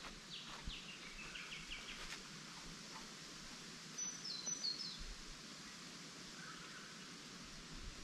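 Small birds calling in bush: a quick run of repeated high notes early on, then a short phrase of stepped, falling notes about four seconds in, over a steady background hiss.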